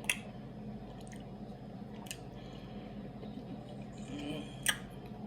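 Close-up mouth sounds of someone chewing Airheads taffy candy: soft wet squishing with a few sharp clicks.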